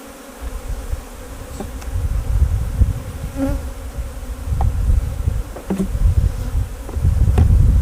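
Honey bees buzzing around an opened hive whose colony is being split, a steady hum under the other sounds. A low rumble swells and fades in gusts, and there are a few light knocks.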